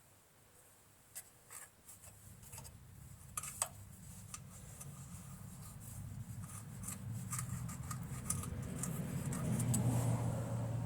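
A low engine rumble builds steadily over several seconds and is loudest near the end, like a vehicle drawing near. Small clicks and taps of parts being handled come through scattered over it.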